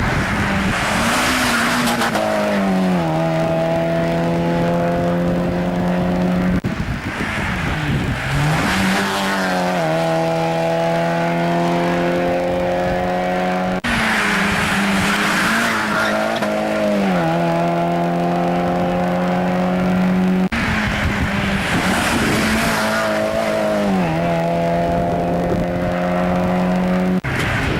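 Mazda MX-5 Cup race cars' four-cylinder engines passing one after another, about four times. Each pass brings a rush of engine and tyre noise, then the engine note drops and holds as the car draws away.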